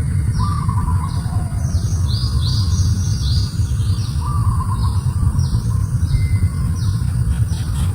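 Birds chirping: a steady series of short, high, downward-sliding chirps, about two a second, with a lower buzzy trilling call three times. A steady low rumble runs underneath.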